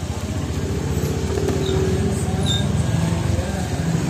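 Motorcycle engine running close by, a steady low pulsing that grows a little louder after the first second. Two short high chirps come near the middle.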